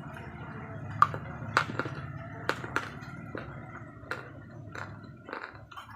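Slate pencils bitten and chewed, dry, close to the microphone: a few sharp cracks about a second in and again around two and a half seconds, followed by smaller crunches through the rest.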